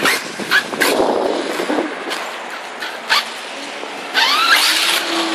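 Wind buffeting the microphone, with scattered clicks and knocks. About four seconds in, an RC car's motor whines up in pitch.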